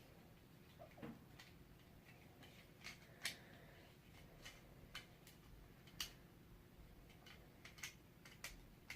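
Faint, irregular clicks and taps of small plastic toy parts being handled: a Transformers figure and its tiny Titan Master pilot being pushed into the jet's cockpit without seating properly.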